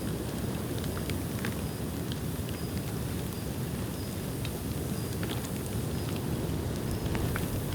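Dry bamboo bonfire burning: a steady low rumble of flames with scattered sharp crackles and pops.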